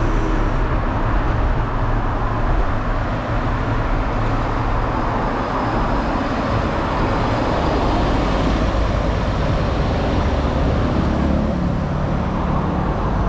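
Steady road traffic noise with a heavy low rumble, and a passing motor's hum faintly heard near the end.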